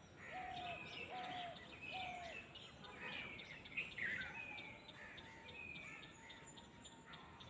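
Several wild birds calling in open country: short chirps sliding downward, repeated again and again, with a run of lower, evenly spaced notes in the first couple of seconds, over a faint outdoor hiss.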